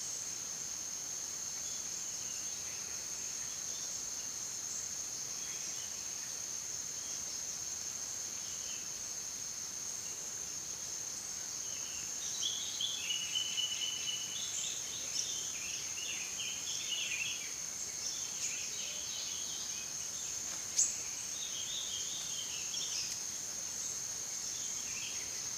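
Steady high-pitched drone of forest insects, with bursts of short chirping bird calls from about halfway through and again near the end, and a single sharp click late on.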